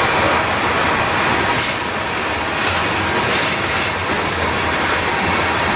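Freight cars (tank cars and covered hoppers) rolling past at track level, with a steady rumble of steel wheels on rail. Brief high-pitched wheel squeals come about a second and a half in and again around three to four seconds in.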